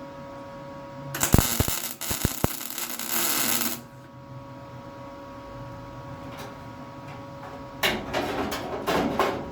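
Electric welder arcing on car body steel: a crackling weld run of about two and a half seconds starting about a second in, and a shorter run near the end. A steady hum sounds between them.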